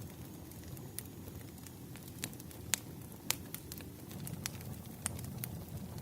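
Burning firewood crackling: irregular sharp pops and snaps over a low, steady rumble of the fire, with the loudest snaps a little under three seconds and about three and a half seconds in.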